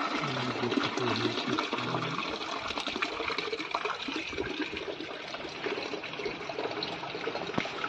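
Water being poured into a tractor's radiator to top up the coolant, running in steadily.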